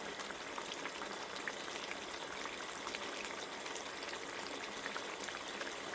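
Food cooking in a pot on the stove: a steady hiss with many small scattered pops.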